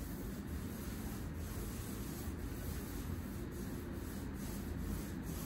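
Faint, steady rubbing, with light strokes repeating about once or twice a second.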